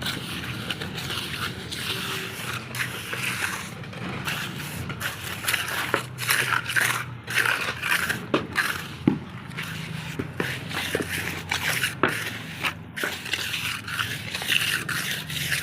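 Irregular scraping and crunching from construction work on building material, a run of short scrapes with a few sharper knocks.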